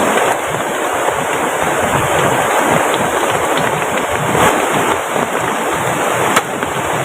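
Steady rush of a rain-swollen river mixed with heavy rain, an even hiss of water with a few sharp ticks.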